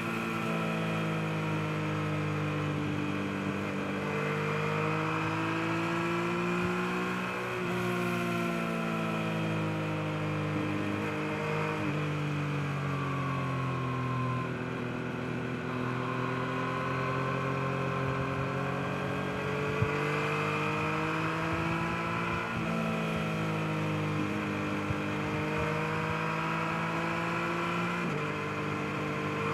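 Yamaha MT-09's inline three-cylinder engine on the move, its pitch rising and falling with the throttle, with several sudden jumps in pitch as gears are changed.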